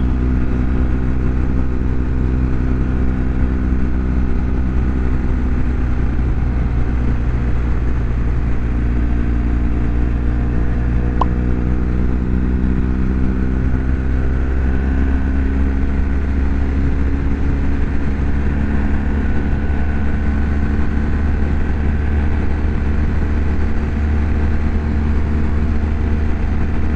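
BMW R1200GS Adventure's boxer-twin engine running steadily at cruising speed, over a constant low rumble. The engine note shifts slightly about halfway through, and there is one small click near the middle.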